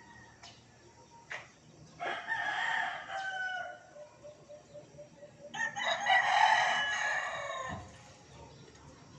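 Rooster crowing twice, the second crow louder and longer.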